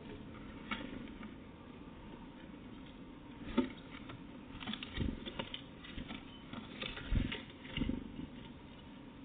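Irregular light tapping and scrabbling with a few dull knocks, from a small animal moving and pecking about at a bird feeding spot. The taps start about three and a half seconds in and come in loose clusters.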